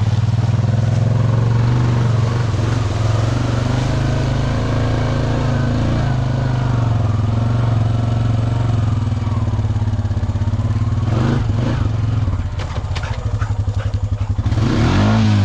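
Honda Rancher 420 ATV's single-cylinder engine running steadily under load. About twelve seconds in it drops to a slow, lumpy idle, then revs back up near the end.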